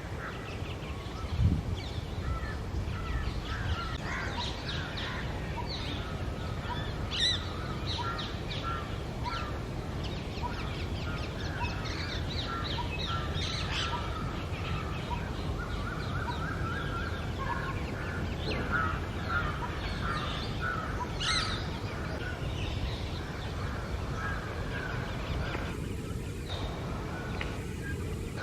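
Rose-ringed parakeets calling: a busy run of short, high, chattering calls, thickest in the middle of the stretch, over a steady low rumble.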